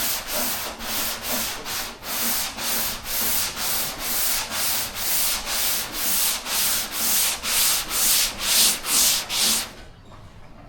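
180-grit sandpaper on a hand sanding block rubbing over primer on a car door, steady back-and-forth strokes at about two a second in a cross pattern. The sanding stops near the end.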